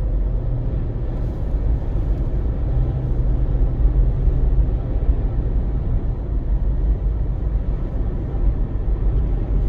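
Steady low rumble inside a car's cabin while driving slowly through a sandstorm: engine and tyre drone mixed with strong wind pushing against the car.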